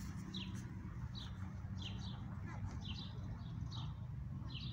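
A small bird chirping over and over: short, quick falling chirps, roughly two a second, over a low steady hum.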